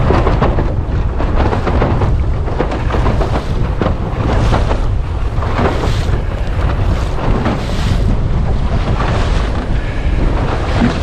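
Wind buffeting the microphone with a constant low rumble, while water rushes and splashes irregularly against the hull of a small centreboard sailing dinghy running through waves.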